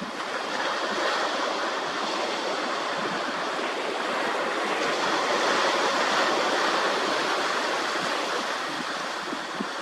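Sea waves washing on the shore close by, a steady rushing that swells and then eases slightly.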